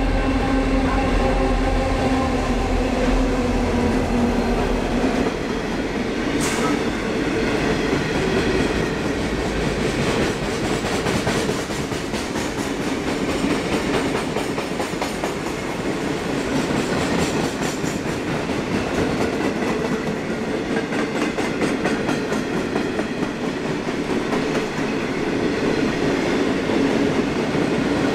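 Pacific National G class diesel-electric locomotives passing at track side. The engine drones and its note sags over the first few seconds as they go by. A long rake of freight wagons follows, rolling past with steady wheel noise and clickety-clack over the rail joints.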